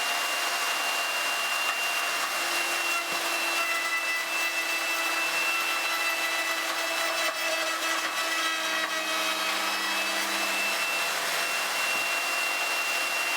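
Table-mounted router running with a dovetail bit, cutting a dovetail slot in wood as the workpiece is fed along the fence: a steady high motor whine over the noise of the cut, with a lower tone that shifts as the bit loads up.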